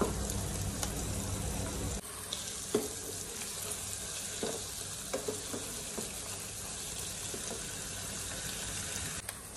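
Chicken pieces with onions and ginger-garlic paste sizzling steadily as they fry in oil in a non-stick pan, with a few light knocks of a wooden spoon against the pan during stirring around the middle.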